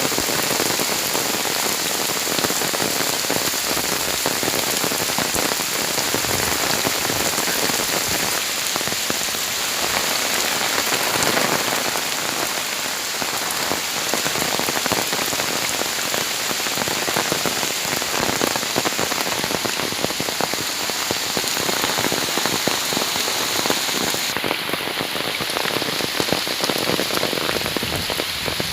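Heavy rain falling steadily, a dense hiss of countless drops striking the ground.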